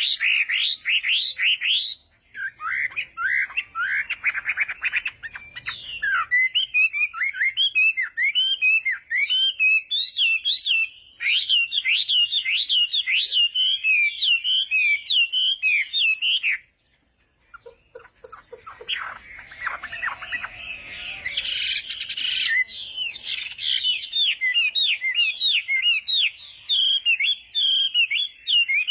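A Chinese hwamei singing a long, rapid run of varied whistled phrases in full contest song. There is a short break about two seconds in and a pause of about a second and a half past the halfway point, followed by a harsher, scratchier passage before the clear whistles resume.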